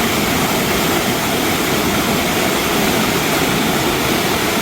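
Steady, loud roar of rushing water from a waterfall, an even wash of noise that starts and cuts off abruptly.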